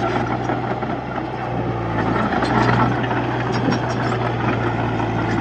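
Diesel engine of a Komatsu D31-P bulldozer running steadily with a low hum, getting a little louder about two seconds in.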